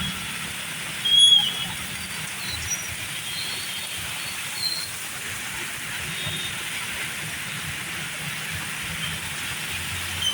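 Steady hiss of heavy rain, with a low rumble underneath. There is a brief louder burst about a second in, and a few short high chirps.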